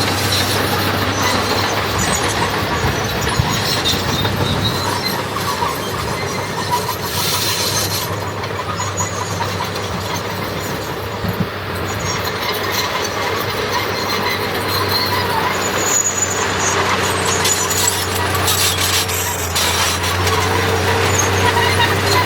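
Diesel earthmoving machinery running steadily: a constant low engine hum under continuous mechanical noise.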